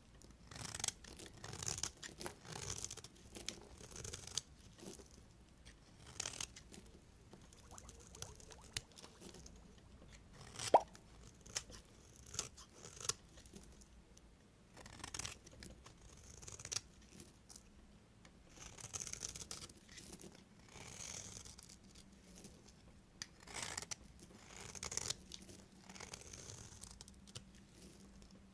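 A knife cutting through bars of soap: a string of crunchy, crackling strokes at an uneven pace, with one sharp click about eleven seconds in.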